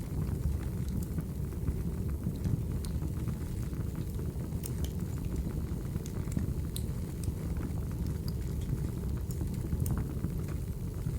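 Recorded wood fire burning: a steady low rumble of flames with scattered sharp crackles and pops from the burning logs.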